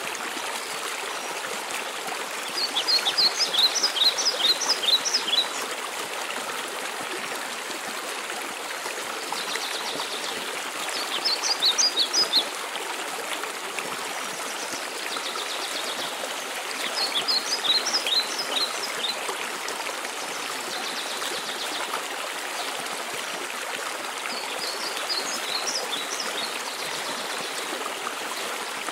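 Steady rushing of a waterfall, with a songbird singing over it. The bird gives a short phrase of rapid high notes about every six to seven seconds, four times, with fainter high trills in between.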